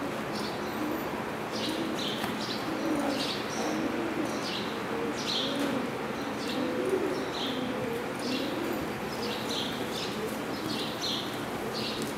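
Birds calling: short high chirps repeated many times over lower notes that glide up and down.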